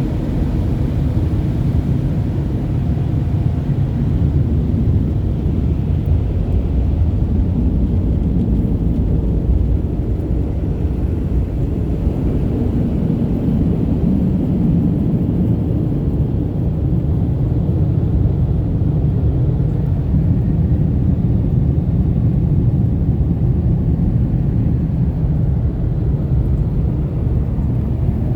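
Automatic car wash dryer blowers running, heard from inside the vehicle as a steady low rumble.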